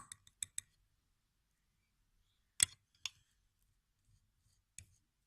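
A utensil clicking against a dish while mashing hard-boiled egg: a quick cluster of sharp clicks at the start, two more midway, the first of them the loudest, and one near the end.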